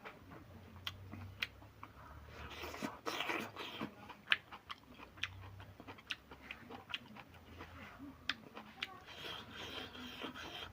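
A person eating close to the microphone: chewing with many short wet mouth clicks and crunches.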